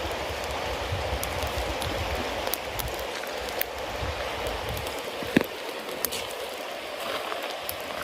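Bonfire of wet cedar leaves and damp firewood burning: a steady hiss from the damp fuel, scattered small crackles, and one sharp pop about five seconds in.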